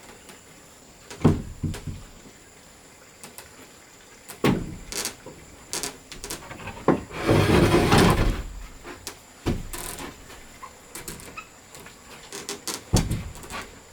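Scattered knocks and clunks of wood being handled and worked, with a rough scraping noise lasting about a second, about seven seconds in.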